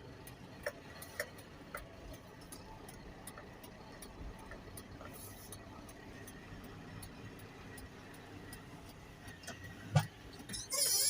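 Light, regular ticking, about two ticks a second, over a low steady hum, with one sharp knock near the end.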